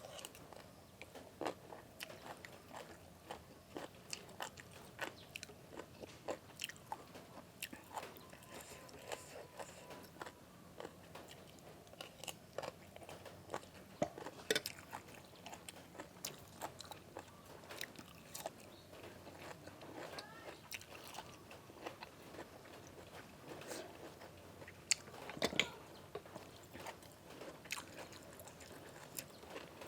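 A person chewing and biting crunchy food close to the microphone: a run of small irregular crunches and clicks, with a louder crunch about 25 seconds in.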